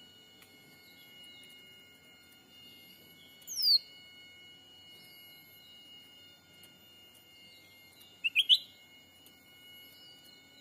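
Bird calls over faint steady high tones. About three and a half seconds in comes one quick, steeply falling whistle; just after eight seconds come three short rising chirps in quick succession.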